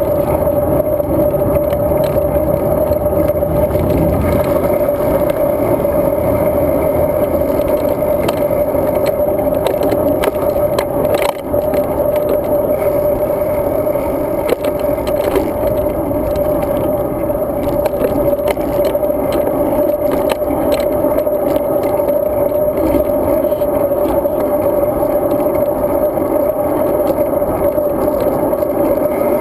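Riding noise from a road bicycle picked up by a GoPro Hero 2 on the move: a steady hum and dense rumble, with frequent clicks and rattles from road vibration.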